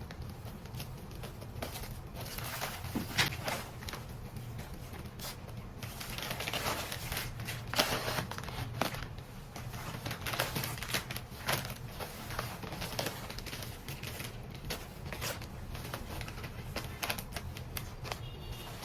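Irregular small clicks, taps and crinkling of things being handled, over a steady low hum.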